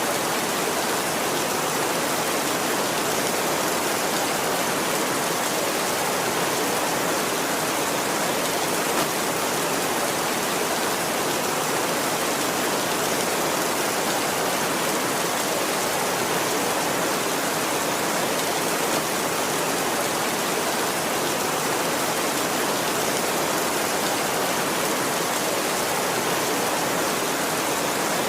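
Heavy rain falling steadily on a tin roof, an even hiss with no let-up.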